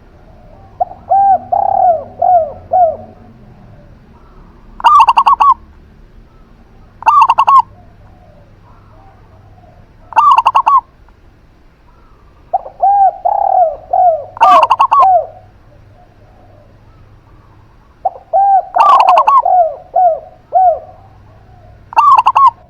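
Zebra dove (perkutut) and spotted dove (derkuku) calling in turns. Runs of four or five cooing notes alternate with short, louder bursts of rapid coos, with pauses of a second or two between phrases.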